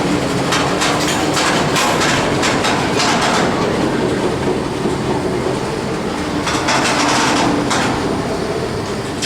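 Freight train rolling past, its wheels clicking over the rail joints in runs of quick clacks over a steady rumble.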